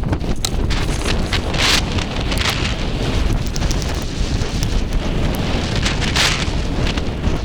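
Sandstorm wind buffeting the microphone in a constant low rumble, with hissing gusts of blown sand about two seconds in and again near the end.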